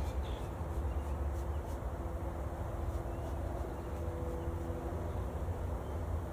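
A steady low rumble with the faint, even hum of a mass of honey bees buzzing over it.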